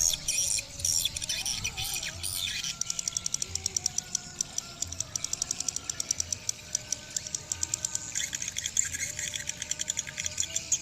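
Swiftlet sounds: rapid high clicking and chirping, denser in the middle and with brighter chirps near the end.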